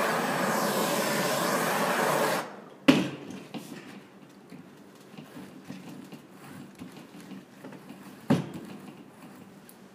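A hand torch's flame hissing steadily, cutting off sharply a couple of seconds in as it heats the overlapped mat material for welding. A sharp knock follows, then faint handling sounds and a second knock near the end.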